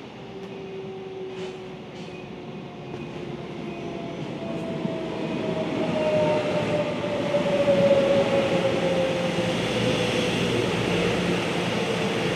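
Electric locomotive-hauled freight train approaching and running past, its wheel-on-rail rumble growing steadily louder, with a drawn-out tone that slides slowly down in pitch as the wagons go by.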